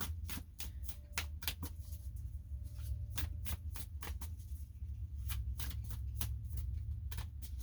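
A deck of reading cards being shuffled by hand: a run of quick, irregular flicks and snaps, over a low steady hum.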